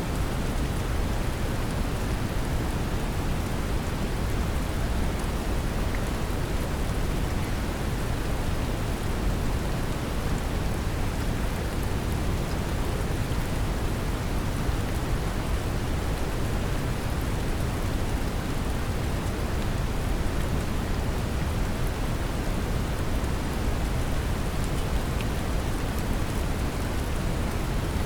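Steady brown noise mixed with rain, a deep even rumbling hiss, with faint patter of raindrops.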